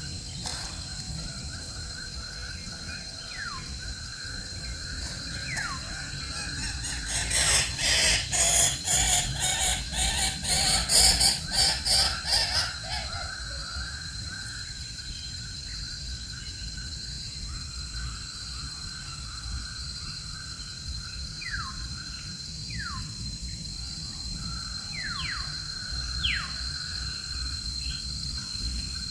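Birds calling outdoors: short, sharply falling whistled calls, with a louder run of rapid rasping calls lasting several seconds in the middle, over a steady high insect drone.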